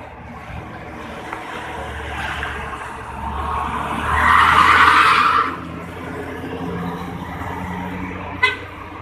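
Vehicle engines running on the road, with a loud hiss lasting about a second and a half midway and a short sharp beep near the end.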